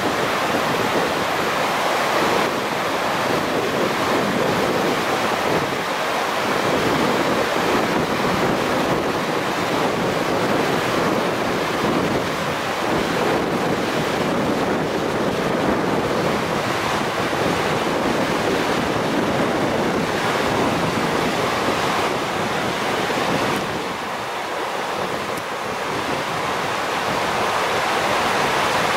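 A river in typhoon flood rushing steadily, with wind buffeting the microphone. The sound dips a little near the end.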